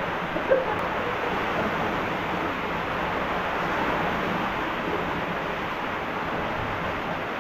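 Rushing water of a mountain canyon stream, a steady even rush with no change in level.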